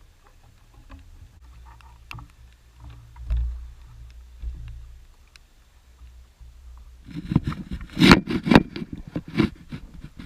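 Small motorboat under way: a low, steady engine hum, then from about seven seconds in loud, irregular knocking and rumbling takes over.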